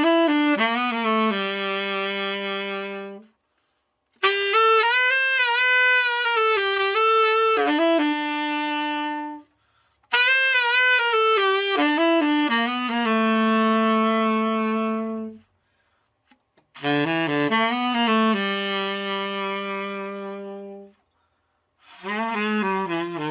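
Selmer Mark VI tenor saxophone played solo in short phrases, each running through a few notes and ending on a long held note, with brief silences between; four phrases, and a fifth starts near the end. It is being play-tested after a full overhaul.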